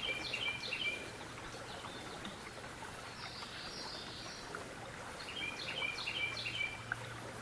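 A songbird singing a quick phrase of short, stepped high chirps, once at the start and again about five seconds in, over the steady low rush of creek water.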